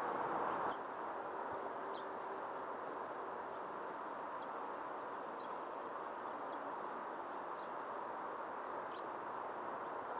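Steady rushing outdoor background noise. Over it, a small bird gives a short, high chirp about once a second.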